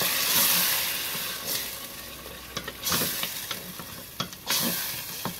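Onion-tomato masala sizzling in oil in a stainless steel pot while a wooden spoon stirs and scrapes through it. The hiss swells loudest in the first second, with scattered light knocks of the spoon against the pot.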